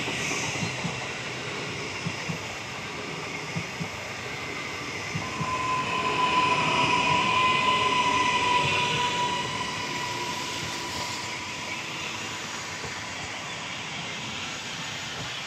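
SBB Giruno electric multiple unit rolling into the station at low speed, its wheels clicking over rail joints a few times. About five seconds in a steady whine starts and lasts for roughly six seconds as the train slows on arrival.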